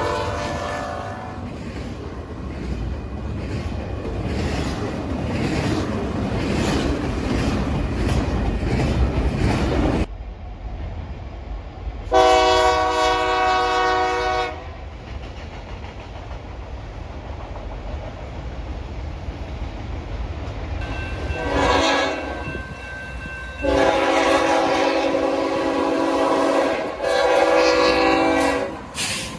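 A train passes with a steady rumble and regular clacking of wheels over rail joints as a horn blast dies away. Then a train horn sounds one blast of about two seconds, and later a short blast followed by two longer ones.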